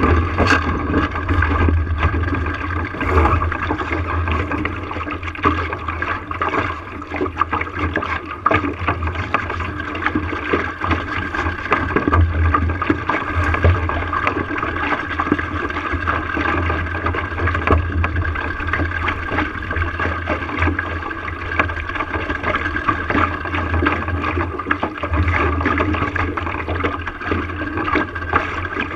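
Water rushing and gurgling along the hull of a small sailboat under way, over a low, uneven rumble.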